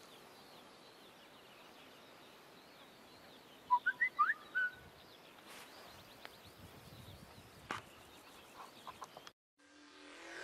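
Faint outdoor ambience with a bird giving a quick run of short, pitch-sliding calls about four seconds in, and a few faint clicks later. The sound cuts out briefly near the end before electronic music begins.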